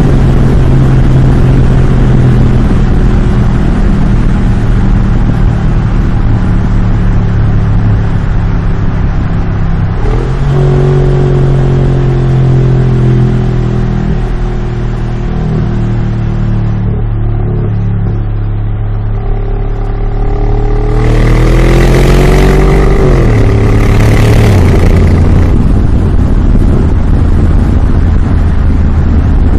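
Mercedes G63 Brabus twin-turbo V8 running through its tuned exhaust, mostly a steady deep idle-like note. About two-thirds of the way in it is revved, with two louder, harsher surges before settling back.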